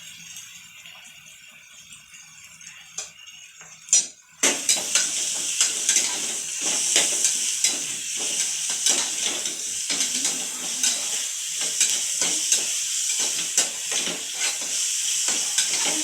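Ginger-garlic going into hot oil in a pressure cooker: a clank about four seconds in, then loud, steady sizzling, with a spoon clinking and scraping against the pot as it is stirred.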